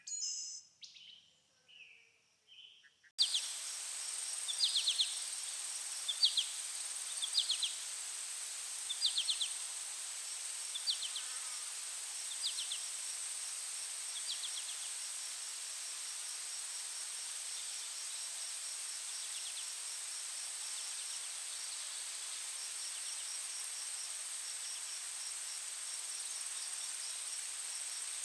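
Forest ambience: a few bird calls, then an abrupt cut about three seconds in to a steady, high-pitched insect drone. Over the drone, short trilled chirps repeat roughly every second and a half and fade away by the middle.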